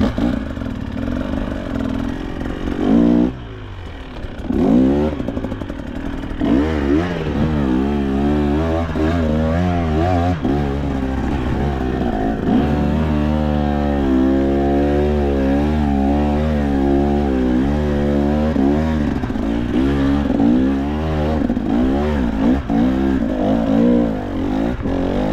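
KTM two-stroke enduro dirt bike engine revving up and down over and over as it is ridden along a rough trail, with a steadier stretch of held revs in the middle, and some clattering.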